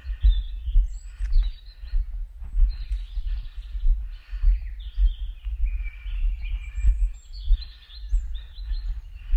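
Walking footsteps, low thuds about twice a second, with several birds singing and chirping over them.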